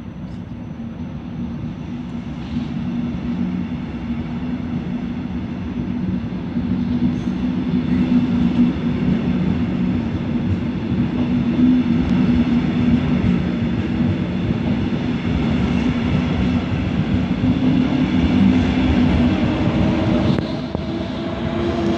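Electric double-deck regional train rolling past along the platform, its low electric drive hum and running noise growing louder over the first several seconds and then holding steady.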